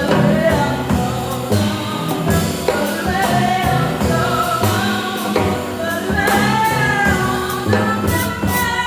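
Jazz vocal with accompaniment: a voice holding and sliding through long notes without clear words, over a backing with a steady low bass line.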